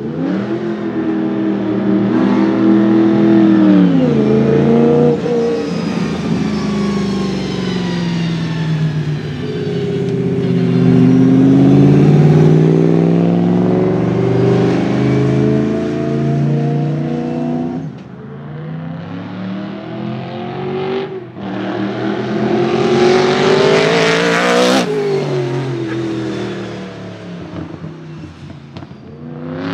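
Supercharged BMW M3 E92's V8 engine revving hard while drifting, its pitch repeatedly climbing and falling. It eases off about two-thirds of the way in, then swells again to a loud, close pass a few seconds before the end.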